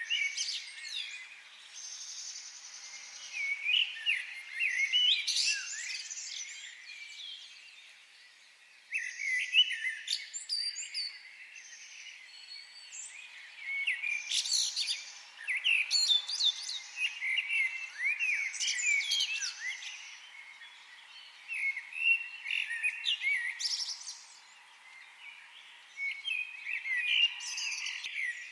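Several forest birds singing and chirping in bursts of quick high trills and chirps, with brief lulls of faint hiss between them.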